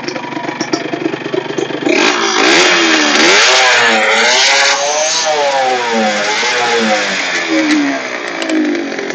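Yamaha DT100X two-stroke single-cylinder engine idling with a quick popping beat. About two seconds in it is revved hard, dips and is revved again, then slowly falls back to idle near the end. The silencer's glass-wool packing is worn, which the owner says makes the exhaust very loud.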